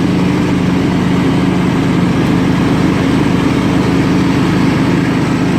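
Scotts lawn tractor's 16 hp Kohler Command engine running steadily under load with the mower blades engaged. It holds an even note with no surging or popping, its carburetor freshly cleaned.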